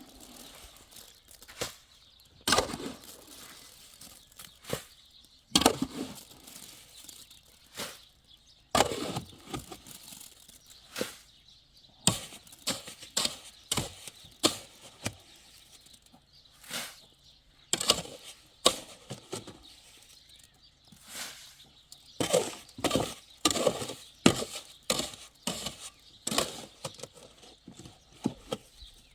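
Irregular knocks, taps and scrapes of hand work, some sharp and some longer and rougher, coming every second or so with short pauses.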